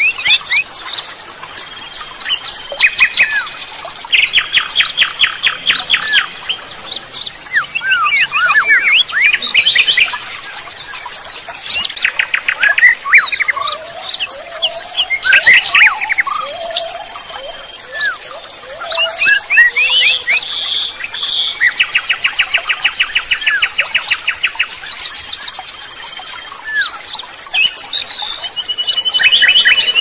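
Several songbirds singing and calling over one another: fast trills, short whistles and chirps overlapping.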